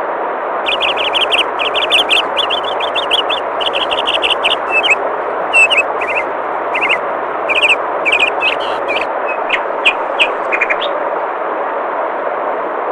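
Steady rush of flowing water with a small songbird chirping over it. The chirps start about a second in as fast repeated trills, thin out after about five seconds, and stop shortly before the end.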